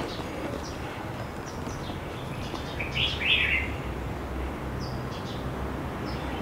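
Birds chirping: scattered short high calls, with a louder burst of chirps about three seconds in, over a steady low background hum.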